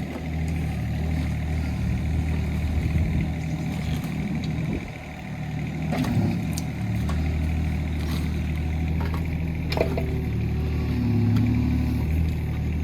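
Hitachi ZX18 mini excavator's diesel engine running steadily while digging. It dips briefly about five seconds in, and a few sharp knocks come through near six and ten seconds.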